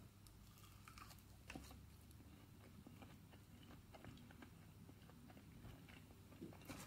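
Faint chewing of a mouthful of breaded tiger prawn, with small, scattered mouth clicks.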